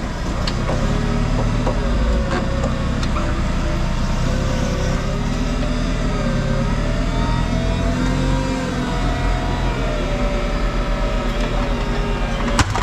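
Diesel engine and hydraulics of heavy scrap-handling equipment running under load, with a whine that wavers up and down in pitch as it strains, and a sharp clank near the end.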